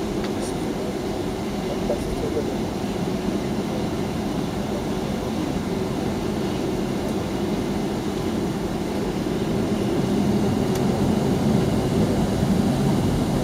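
Boeing 757-200 jet engines running, heard from inside the airliner's cabin as a steady low rumble that grows louder about ten seconds in.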